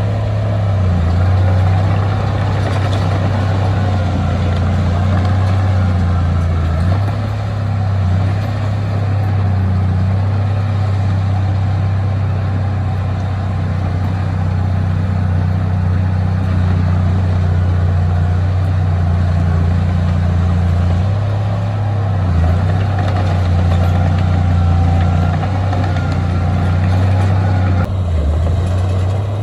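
Heavy diesel engine of earthmoving equipment running steadily: a continuous low drone with small shifts in pitch every few seconds.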